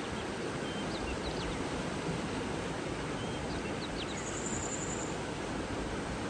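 Steady rushing of flowing water with scattered short, high bird chirps over it, and a brief high trill about four seconds in.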